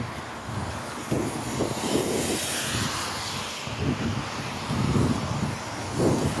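Wind buffeting the microphone in uneven gusts, with the hiss of passing traffic on a wet road swelling about two seconds in.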